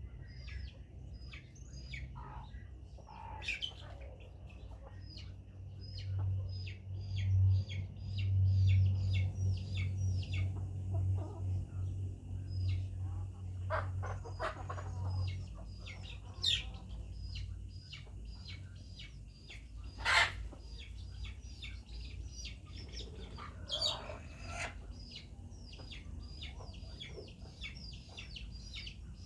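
Chickens calling, with a steady run of rapid high chirps throughout and a few clucks. A low hum comes in from about six to fifteen seconds in, and a few sharp knocks sound later on.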